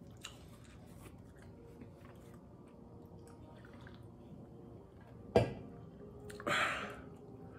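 Quiet chewing, then a single sharp knock about five seconds in as a drink can is set down on the table. A loud breathy exhale follows about a second later.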